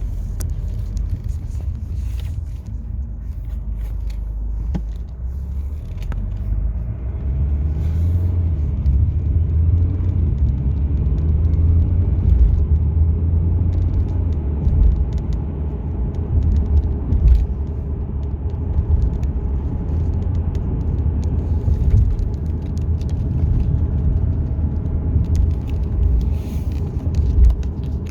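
BMW F10 520d diesel car running with a steady low rumble that grows louder about seven seconds in, carrying a supercharger-like whine whose cause is unknown.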